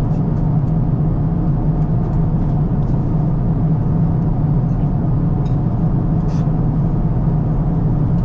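Steady low rumble and hiss of cabin noise inside an Airbus A350-1000 airliner in flight, from its engines and the airflow over the fuselage.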